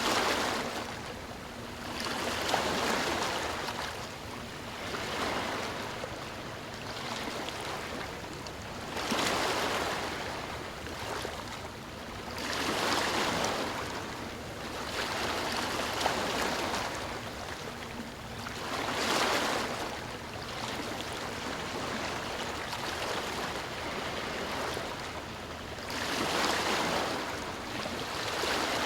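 Sea waves breaking and washing in: a steady surf hiss that swells louder every few seconds as each wave comes in, then falls back.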